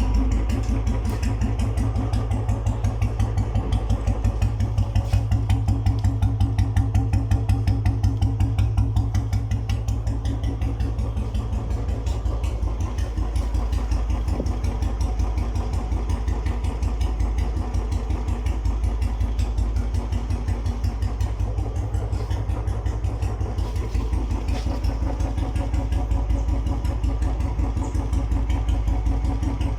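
Royal Enfield Bullet Standard 350's single-cylinder four-stroke engine idling through a long Punjab silencer with an empty bend: a steady, even "dug dug" exhaust thump, with the exhaust note far louder than any mechanical engine noise.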